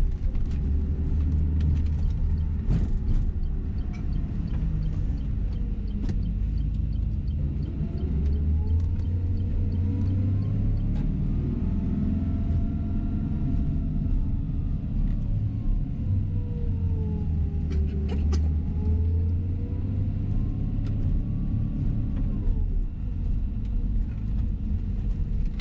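Tour coach bus driving, heard from inside the cabin: a heavy steady rumble of engine and road, with the engine's whine rising, falling, rising again and dropping away near the end as the bus changes speed. A few brief knocks and rattles.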